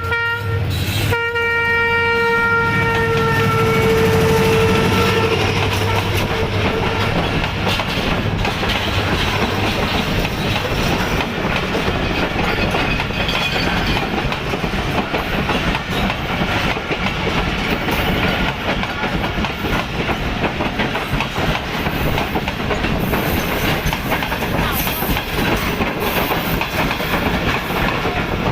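Train horn blowing a long steady note that fades out about five seconds in. A steady rumble and clatter of train wheels on the rails runs under it and on to the end, as the trains pass each other.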